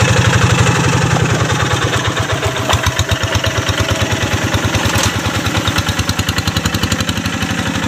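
Quick G1000 Boxer hand tractor's single-cylinder diesel engine running with a rapid, even chug; the beat becomes stronger about three seconds in.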